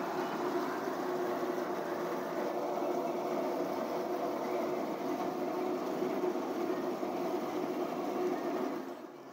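Steady machine hum with a constant pitch, dropping away briefly near the end.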